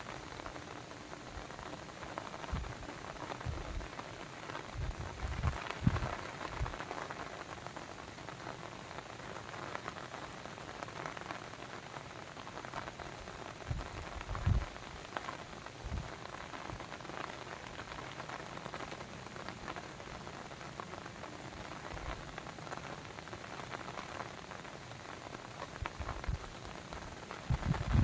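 Water: a steady rushing hiss with irregular low plops and splashes scattered through it, loudest about six seconds in and again near the middle.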